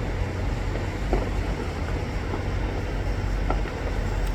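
Distant fireworks giving a few faint short pops, about a second in and again after three and a half seconds, over a steady low rumble.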